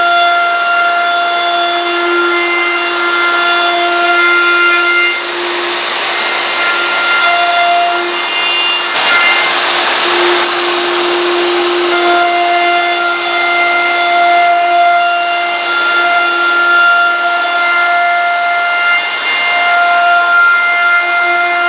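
Electric power sander running steadily against wood, its motor whining over the rasp of the abrasive, with a rougher stretch of sanding about nine to twelve seconds in; it is sanding the glue layup lines off a wooden seat brace.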